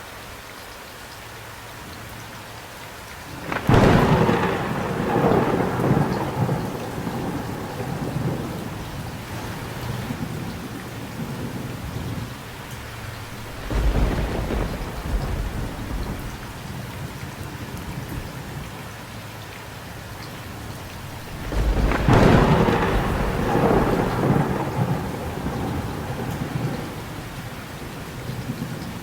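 Thunder over steady rain: three claps, about four seconds in, near the middle and about three-quarters of the way through, each cracking out suddenly and rumbling away over several seconds.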